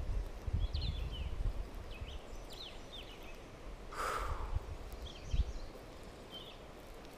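Small birds chirping in short, quick calls, over a low, uneven rumble of wind on the microphone, with a brief swish about four seconds in.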